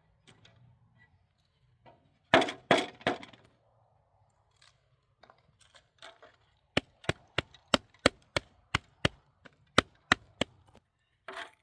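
Three loud cracking impacts a couple of seconds in, then a quick run of about a dozen sharp knocks, roughly three a second.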